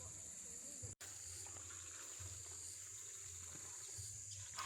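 Insects chirring steadily, a high continuous buzz with a faint pulsing edge, over a low hum; the sound cuts out for an instant about a second in.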